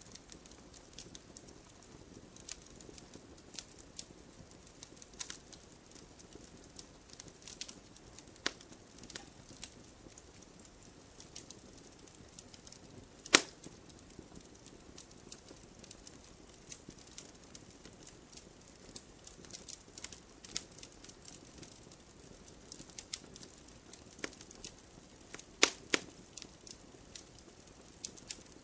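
Campfire crackling steadily with irregular sharp pops over a faint hiss, one loud pop about halfway through and a couple more near the end.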